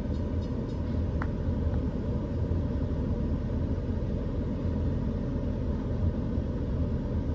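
Empty coal train rolling past, a steady low rumble from its cars and wheels on the rails.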